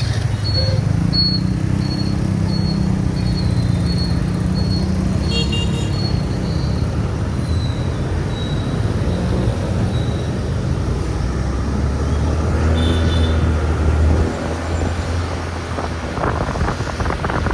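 City traffic heard from a moving motorbike: engines running with road and wind noise. A run of short high beeps about twice a second sounds over the first few seconds, and vehicle horns toot briefly about five seconds in and again near thirteen seconds.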